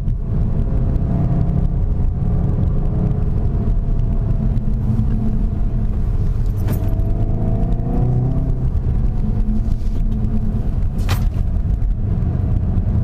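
SEAT Leon Cupra 300's turbocharged 2.0-litre four-cylinder engine pulling hard in third gear, its pitch falling and rising repeatedly as the driver lifts off and accelerates through the bends. There are two short sharp clicks, about seven and eleven seconds in.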